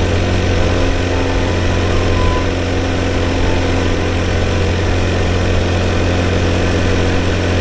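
Honda Cub's single-cylinder four-stroke engine running at a steady cruising speed, with wind and road noise rushing over the microphone.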